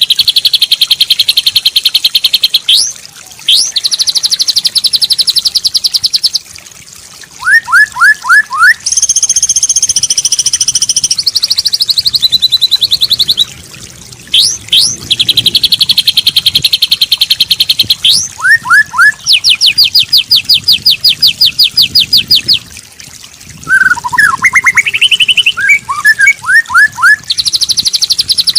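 Recorded songbird song used as a masteran training track for white-rumped shamas. It plays in phrases of a few seconds: fast, even, high trills and sharp upswept whistles, with short lower sweeping notes, separated by brief pauses.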